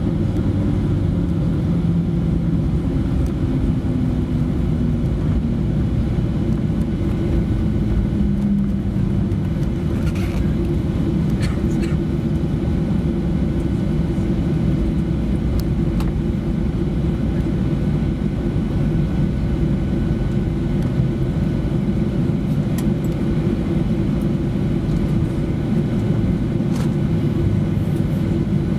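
Steady low cabin rumble inside a Boeing 737-800 during landing: the CFM56-7B engines and the airflow over the fuselage, heard from a window seat. A few faint clicks sound around the middle.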